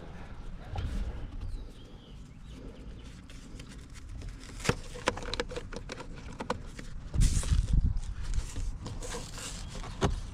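Scattered clicks and knocks of plastic steering-wheel trim covers being handled and snapped into place, with a cluster of louder thumps about seven seconds in.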